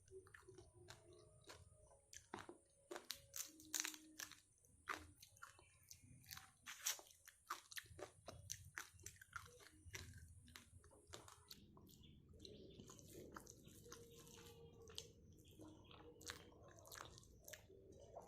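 A person biting and chewing crunchy food, with many sharp crunches that give way to softer, steadier chewing about two-thirds of the way through.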